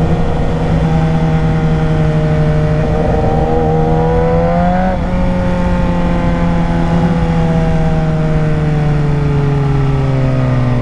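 Suzuki GSX-R 600's inline-four engine running under riding, its note climbing for the first five seconds or so, then slowly falling off, and dropping lower near the end, over steady wind rush.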